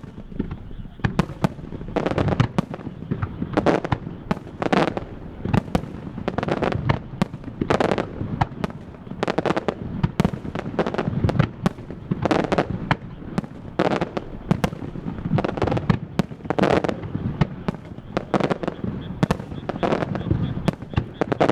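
Fireworks starmine barrage: shell bursts and crackling reports fired in quick succession, several loud booms each second, overlapping and echoing.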